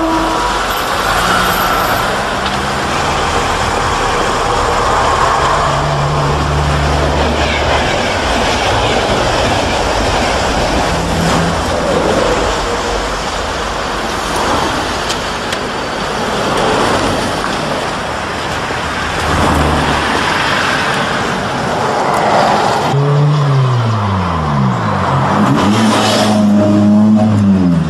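A sports car's engine running with road noise as the car drives. Near the end the engine note rises and falls several times as it revs.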